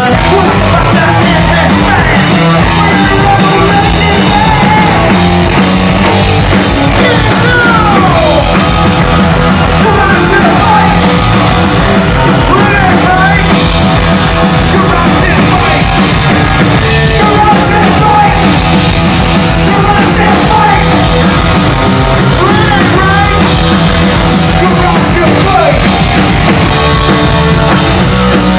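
Rock band playing live at full volume, with a singer's voice over the band.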